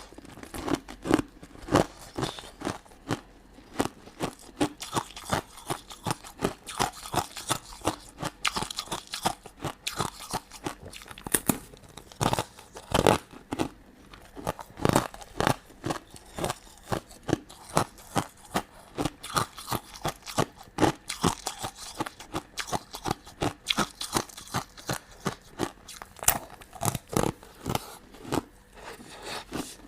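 Close-miked chewing and crunching of crunchy sugar-coated sweets, with many sharp, irregular crunches.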